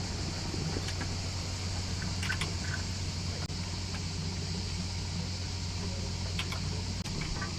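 Sailing yacht's inboard engine running steadily at low revs while motoring slowly, with a constant hiss of water and a few faint clicks.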